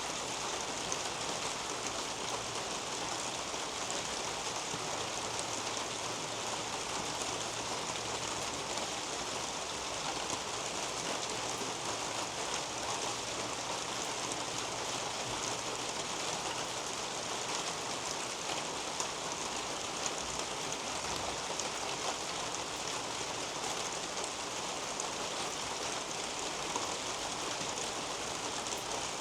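Steady rain falling on garden leaves and a roof overhead, an even hiss dotted with the faint ticks of single drops.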